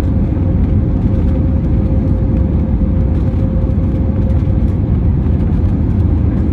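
Steady cabin rumble of an Airbus A320neo with CFM LEAP-1A engines, heard from inside the economy cabin during the landing phase. A thin steady hum sits over the rumble and fades out about four and a half seconds in.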